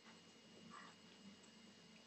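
Near silence with faint eating sounds: a soft mouth noise from chewing food about a second in, over a low room hum.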